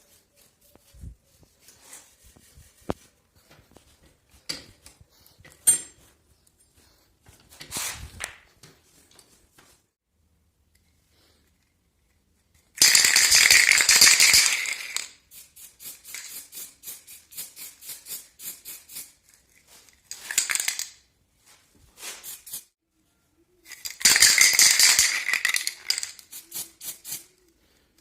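Two loud hissing sprays of about two seconds each, each followed by a run of quick short strokes, with light clicks and rattles of hand work on an old bicycle between them.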